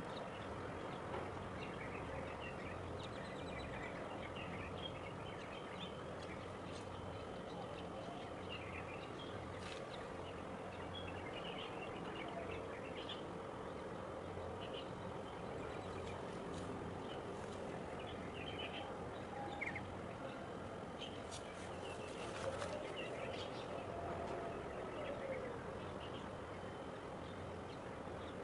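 Steady outdoor background noise with small birds chirping on and off throughout, and a few short clicks about three-quarters of the way through.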